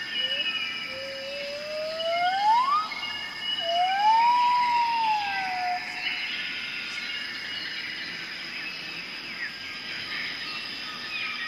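A single siren-like tone slides up over about two seconds, then rises and falls once, over a din of steady high-pitched tones.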